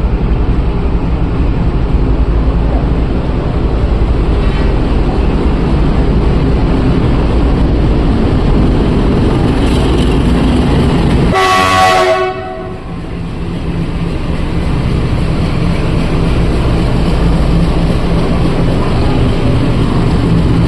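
Indian Railways locomotives running with a train: a steady diesel-engine and rolling rumble, broken a little past halfway by one short horn blast. The rumble drops off briefly after the horn and then builds back up.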